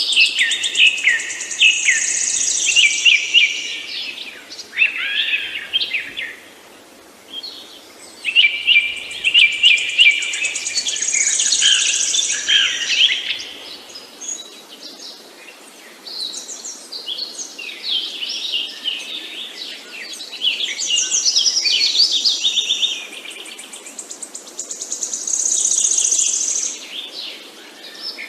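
Songbirds chirping and singing in bouts of rapid high chirps and trills, with short lulls between bouts over a faint steady background hiss.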